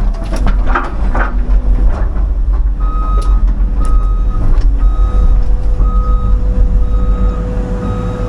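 CAT 323 hydraulic excavator's diesel engine running steadily, with a few sharp knocks in the first two seconds. From about three seconds in, the machine's travel alarm beeps about once a second, short beeps, as it moves on its tracks.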